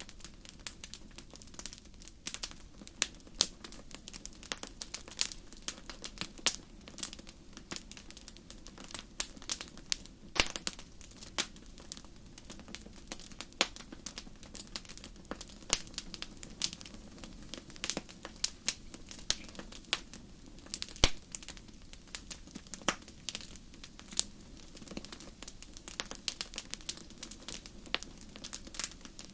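Wood fire crackling in a fireplace: irregular sharp pops and snaps, several a second, over a low steady rumble of the flames, with one louder snap about twenty seconds in.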